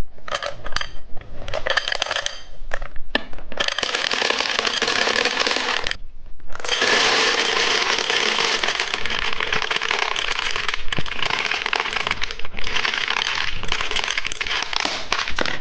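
A pile of candies being shaken and poured out of their package. Scattered clicks and clatters at first, then a long dense rattling and crinkling from about four seconds in, with a brief break around six seconds. The candies are jammed and won't pour out because there are too many.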